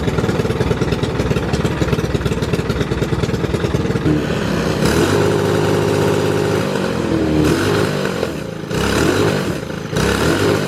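Briggs & Stratton go-kart engine running hard on a race track. It pulses roughly at first, then holds a steady pitch, and eases off twice near the end as the throttle is lifted.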